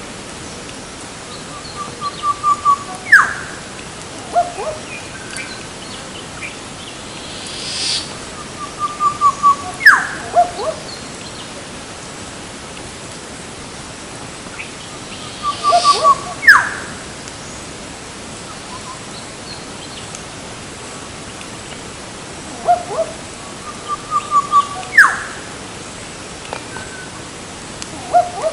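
A bird repeating the same call phrase four times, about every seven seconds. Each phrase is a quick run of five or six short notes followed by one sharp up-and-down note, with a few lower single notes around it, over a steady outdoor hiss.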